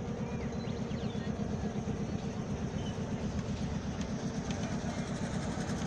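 A motor engine running steadily with a fast, even pulsing rumble, and a few faint chirps above it.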